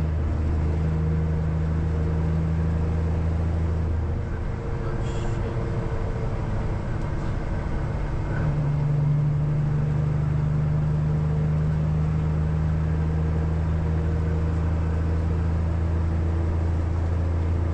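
Peterbilt truck's Cummins ISX diesel engine running under way, heard from inside the cab as a steady low drone. About four seconds in, the steady note breaks up for about four seconds, then settles again at a slightly lower pitch.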